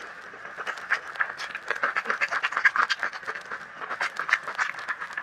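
Eating sounds of a mouthful of spicy instant noodles being chewed: quick, wet mouth clicks several times a second.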